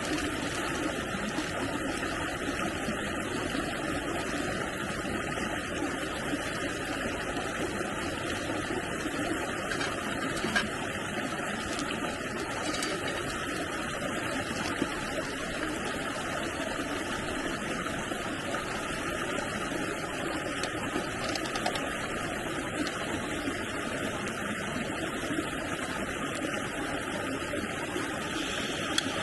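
Steady rushing of flowing stream water, with a few faint clicks.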